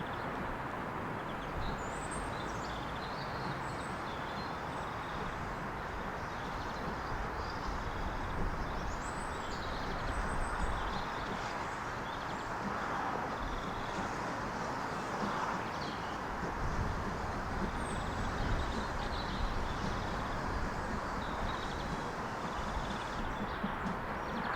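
Small birds chirping and singing, brief high calls scattered through, over a steady low rumble of background noise.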